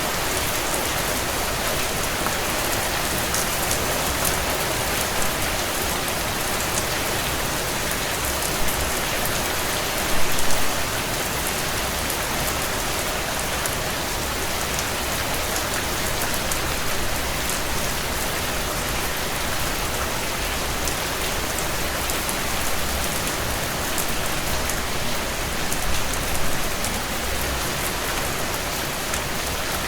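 Heavy rain drumming on a tin roof: a steady, dense patter of drops, with a few brief louder spells along the way.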